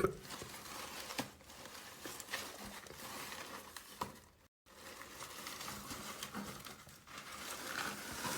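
Paper rustling and crinkling as an old book is handled and its pages turned, with a few small ticks. The sound briefly cuts out about halfway through.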